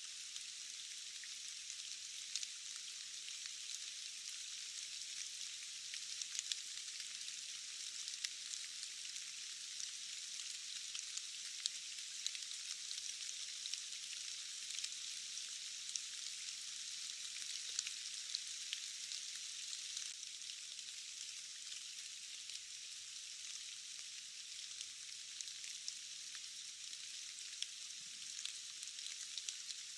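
Steady rainfall: an even, thin hiss of many drops with small individual drop ticks scattered through it, and no low rumble.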